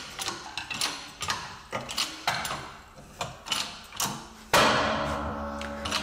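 Steel sockets and press cups clinking and knocking as they are worked into position against a suspension bush. About four and a half seconds in comes a sharp metallic clang that rings on for more than a second.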